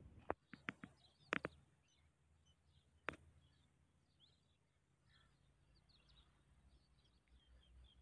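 Faint small-bird chirps over near silence, with a few sharp clicks in the first second and a half and one more about three seconds in.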